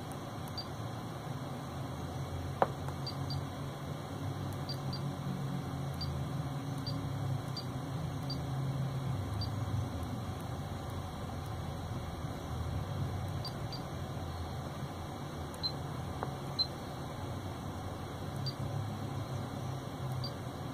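Touch-feedback beeps from a Pioneer AVH-P6380BT car multimedia head unit as a stylus taps its on-screen buttons: about fifteen short high pips at irregular intervals, with a sharp click about two and a half seconds in, over a low steady hum.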